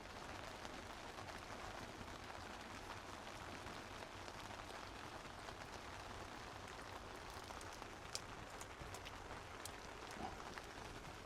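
Steady rain falling, with a few sharp isolated ticks of drops landing about eight and nine seconds in.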